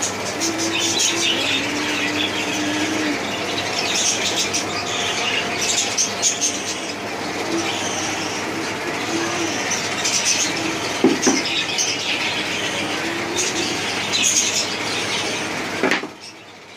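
Flock of cockatiels calling in an aviary: repeated bursts of high chirps and squawks over a constant busy chatter. The sound drops away abruptly shortly before the end.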